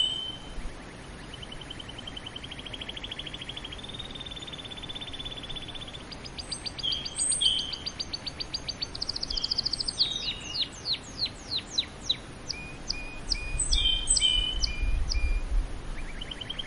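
Canary singing a long song: fast rolling trills of rapidly repeated notes, moving up in pitch, then a run of steep falling sweeps and short repeated chirps, phrase following phrase without a break.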